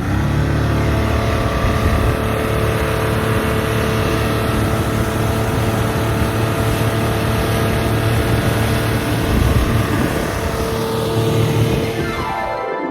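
Rescue motorboat's engine running at speed as the boat circles in the water, a steady loud drone. The engine note falls in pitch near the end.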